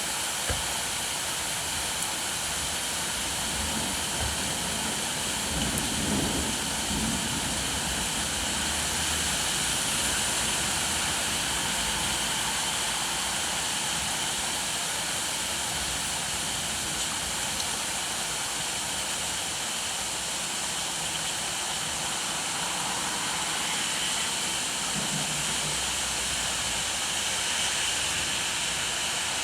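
Steady rainfall, an even hiss that does not let up, with brief low rumbles about six seconds in and again near twenty-five seconds.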